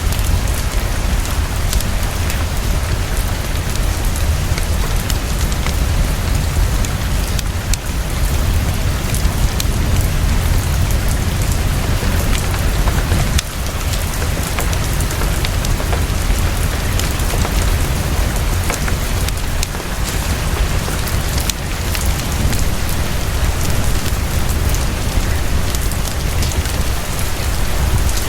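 Heavy rain falling fast and steadily, a dense even patter with a deep low rumble underneath.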